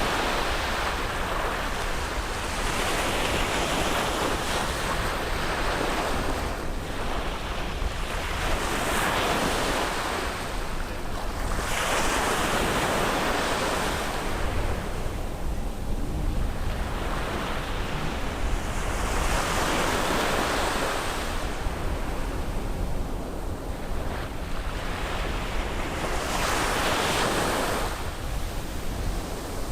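Ocean waves breaking on a beach, the surf swelling and falling back every few seconds in a steady wash.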